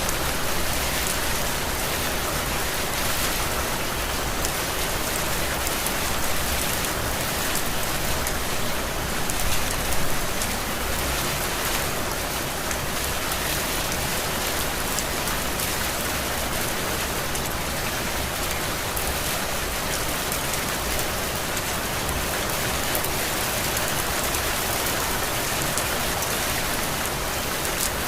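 Heavy, steady rain falling: an even, dense hiss, briefly swelling a little louder about ten seconds in.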